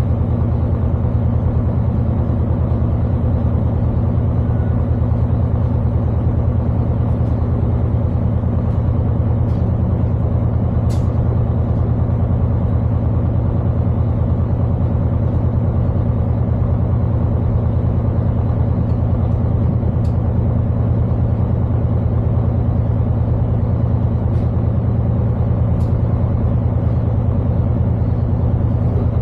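Class 221 Super Voyager diesel-electric train's underfloor Cummins diesel engines idling: a steady, loud low hum that does not change, with a few faint ticks.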